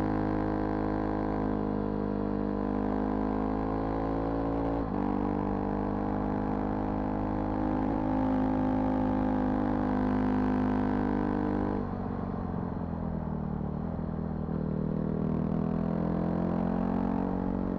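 Vehicle engine running steadily while driving, with a brief break about five seconds in and a drop in loudness and pitch about twelve seconds in.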